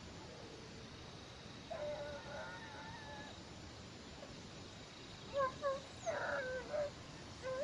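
Hunting dogs baying on a rabbit hunt: one long drawn-out bay, then a string of short yelps in the second half, the cry of hounds running a rabbit's trail.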